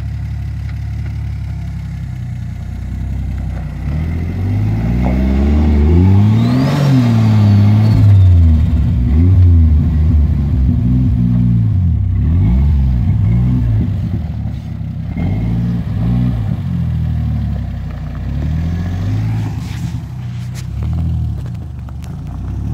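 Turbocharged Nissan TB42 4.2-litre straight-six petrol engine idling steadily, then revving up and down repeatedly as the off-roader is driven. Near the biggest rev, about seven seconds in, a thin turbo whistle rises and falls.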